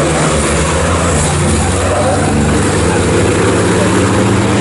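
Diesel race truck engines running hard on track: a steady low drone with noise over it, no clear rise or fall in pitch.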